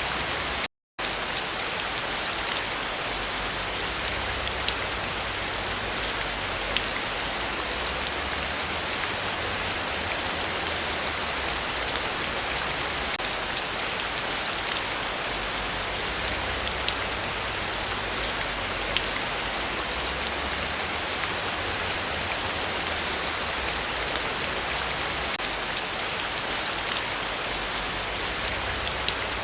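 Heavy rain falling steadily, a dense even hiss of drops on surfaces. The sound cuts out completely for a split second about a second in.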